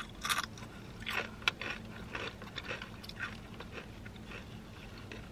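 Chewing and crunching a tortilla chip close to the microphone: a run of short crisp crunches that thins out after about three seconds.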